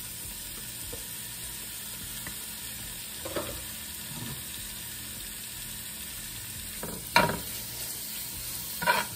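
Chicken pieces frying in canola oil in a nonstick skillet, sizzling steadily. A utensil stirring them scrapes and knocks against the pan a few times, loudest about seven seconds in.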